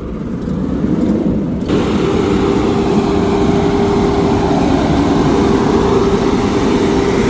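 Garbage truck's diesel engine running with a low rumble and a steady whine. A loud rushing noise comes in suddenly a little under two seconds in and holds steady.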